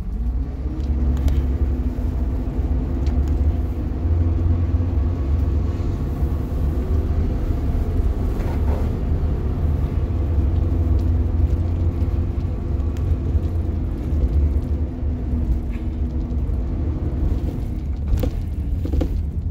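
A vehicle engine idling with a steady low rumble and hum. The hum fades out near the end.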